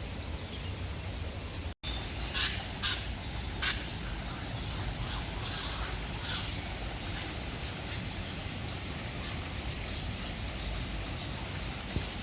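Birds calling over a steady outdoor hiss: three sharp calls come close together just after a brief break in the sound, followed by fainter scattered calls.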